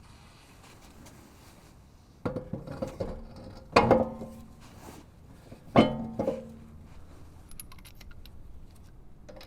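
Metal car parts and tools clanking and rattling: three sharp metallic knocks, each followed by a short ringing rattle.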